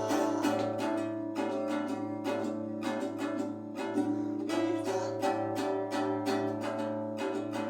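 Acoustic guitar strummed in a steady rhythm with sustained chords, playing music without singing.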